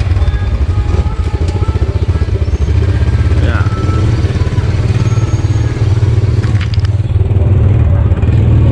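Small motorcycle engine running close by with a low, steady putter, growing louder about three seconds in as the motorcycle taxi sets off.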